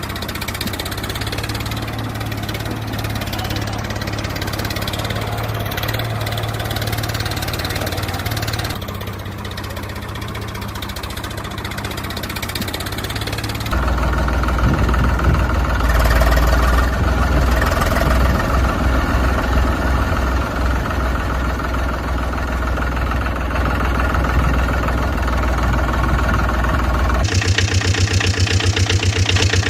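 Vehicle engine idling with a steady low throb. It switches abruptly to a different, louder engine sound about 14 seconds in, and again about 27 seconds in.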